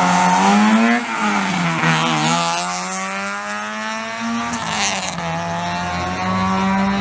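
Rally car engine revving hard, its pitch climbing and then dropping several times as it works through the gears.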